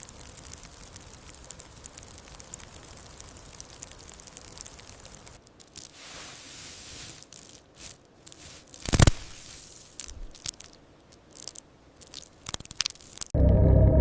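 Soft, irregular crackling and crunching with many small clicks, breaking up into scattered rustles partway through, with one sharp click about nine seconds in. Music comes in just before the end.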